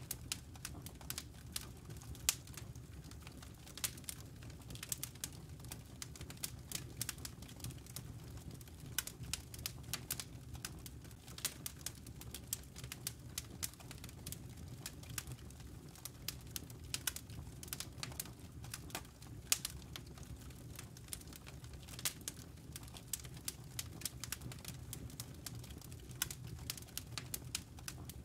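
Wood fire burning in a fireplace: irregular sharp crackles and pops of the logs, several a second, over a steady low rumble of the flames.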